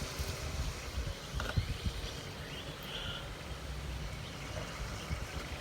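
Outdoor background noise: a steady low rumble with a few faint bird chirps.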